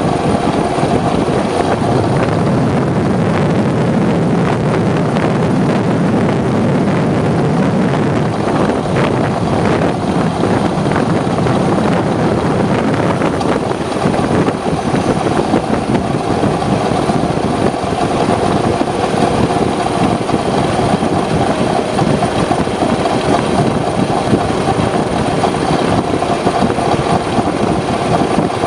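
Aprilia RS125's 125 cc two-stroke single-cylinder engine running steadily, mixed with a dense rush of noise.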